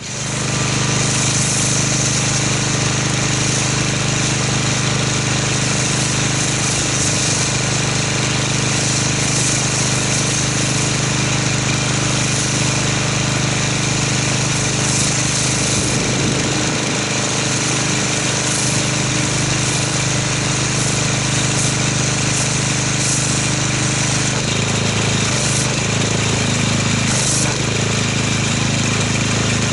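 Pressure washer pump running steadily while spraying foam through an MTM foam cannon, a steady machine drone under a high spray hiss. The pitch of the drone shifts slightly near the end.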